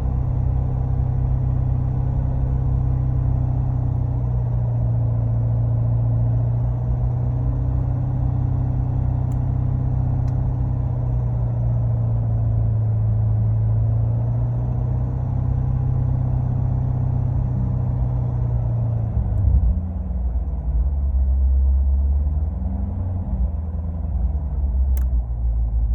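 Corvette C7 Grand Sport's 6.2-litre V8 heard inside the closed cabin, running steadily at low revs below 3000 rpm with a rattle from the interior. About 19 seconds in the throttle is released and the engine note drops to around 1300 rpm, with the rattle still audible.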